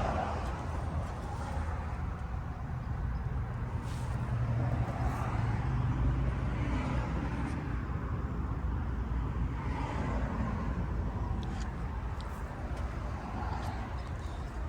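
Steady low rumble of road traffic, swelling now and then as vehicles pass.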